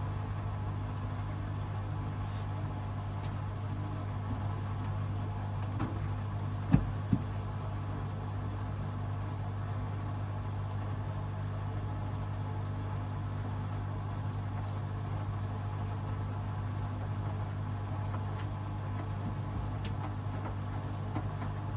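Hoover DXOA610AHFN-80 front-loading washing machine running mid-cycle with a steady hum, with two sharp knocks close together about seven seconds in.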